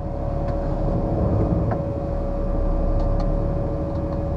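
Lorry's diesel engine running, heard from inside the cab: a steady low rumble with a constant hum above it.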